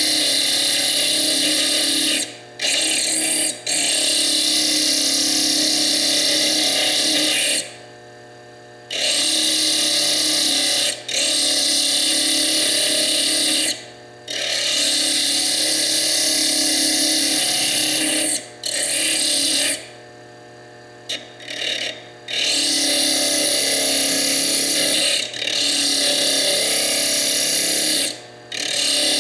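Foredom bench lathe with a small slitting disc grinding into fire agate, a loud, even gritty scraping. It stops briefly about a dozen times as the stone is lifted off the disc, with longer pauses about 8 seconds in and around 20 seconds. The lathe's motor hum carries on through the gaps.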